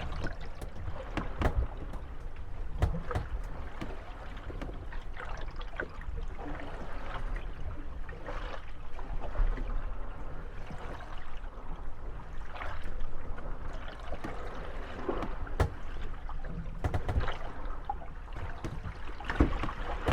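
Moored wooden gondolas rocking on lapping water, their hulls creaking and knocking irregularly against each other and the pier as the waves come in.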